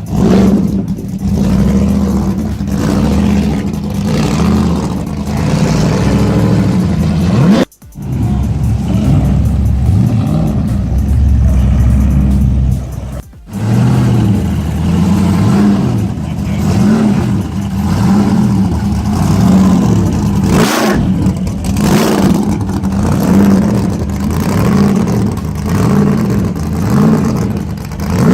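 Car engines running and revving at a car meet, with a steady low drone and engine pitch rising and falling over and over. The sound drops out briefly twice, about 8 and 13 seconds in.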